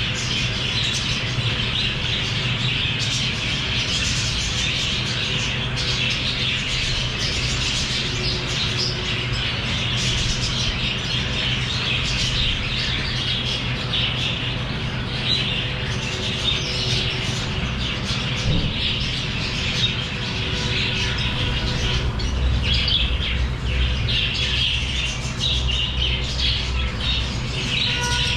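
A group of small pet parrots (love birds) chattering and squawking continuously, many overlapping calls, over a steady low hum.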